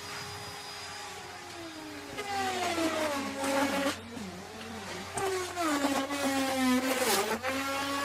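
Electric wood router running and cutting wood: its motor whine sags in pitch and grows louder twice as the bit takes load in the cut, recovering its pitch between cuts.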